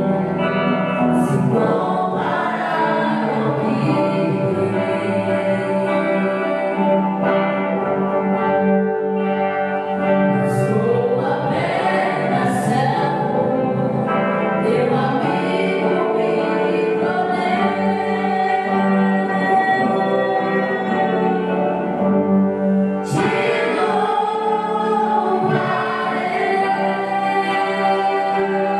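Gospel worship music: a group of voices singing a hymn together, with held notes underneath.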